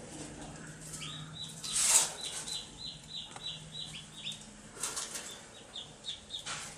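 Baby chicks peeping: a quick run of short, high, downward-falling peeps, with a brief loud scuffle about two seconds in and a few softer rustles later.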